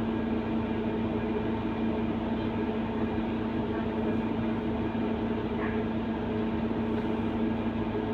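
Scania K230UB bus running with a steady, unchanging drone and a constant pitched hum.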